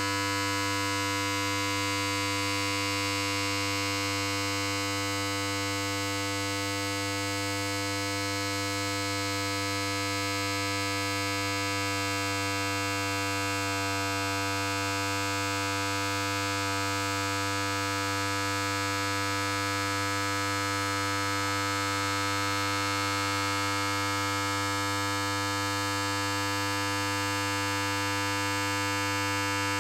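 Electric hair clipper running steadily, an even mains-frequency buzz with a strong low hum and many higher overtones, unchanging throughout.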